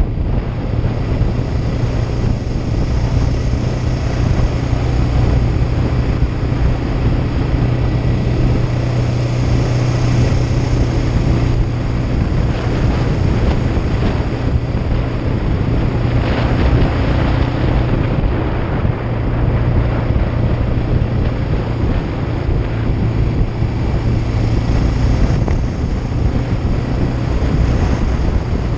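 Kawasaki Ninja 500 (EX500) parallel-twin engine running under way at a fairly steady pitch, with heavy wind noise on the action camera's microphone.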